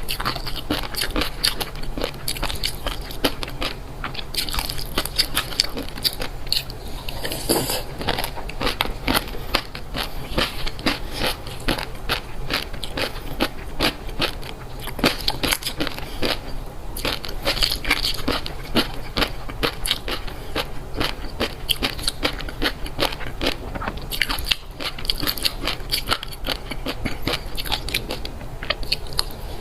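Someone chewing crunchy food close to the microphone: a dense, continuous run of crisp crunches and bites.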